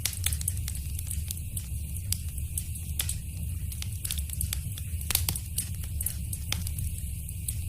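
Wood fire crackling in a fireplace: frequent small sharp pops and snaps, a few louder ones about three, five and six and a half seconds in, over a low steady rumble of the flames.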